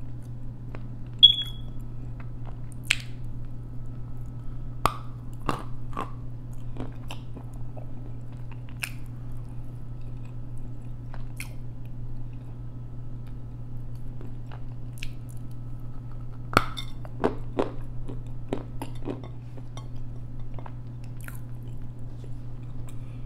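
Edible clay being bitten and chewed close to a clip-on microphone: scattered sharp crunches and clicks over a steady low hum, the loudest snap about a second in.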